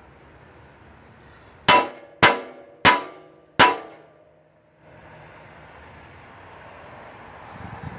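Metal struck four times: sharp clanks roughly two-thirds of a second apart, each ringing briefly. A steady low hiss lies underneath.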